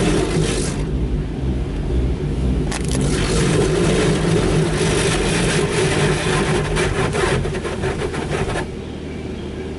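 Touchless automatic car wash machinery working over the car, heard from inside the cabin: a steady low hum with surges of rushing spray or air noise that fall away near the end.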